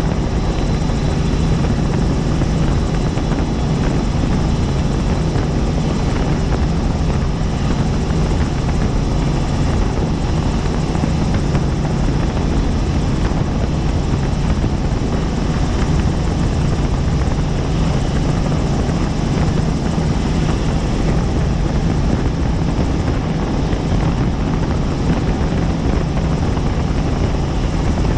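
Helicopter in flight: the steady, loud drone of rotor blades and turbine engine, unchanging throughout.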